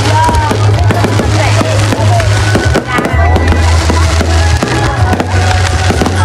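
Fireworks going off in quick succession, sharp bangs and crackles, over loud music with a heavy, steady bass line.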